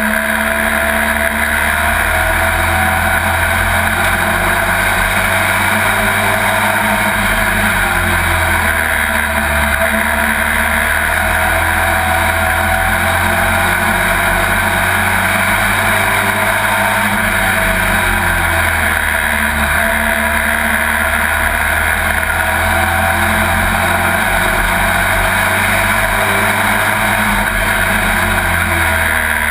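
Pro Truck race truck's engine heard from inside the cab under racing, a loud steady drone whose pitch rises and falls gently as the truck lifts and accelerates around the track.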